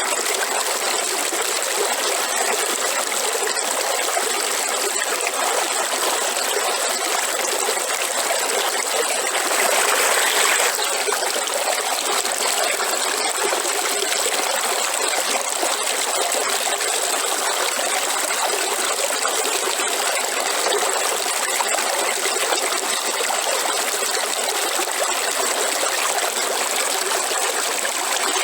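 River water running steadily, with a short louder surge about ten seconds in.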